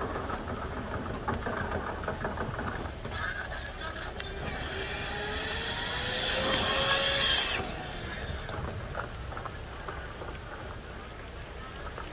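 Dryer vent cleaning equipment running in the dryer duct: a steady low rumble under a motor whose pitch rises slowly, with a loud rush of air for about three seconds in the middle that cuts off suddenly.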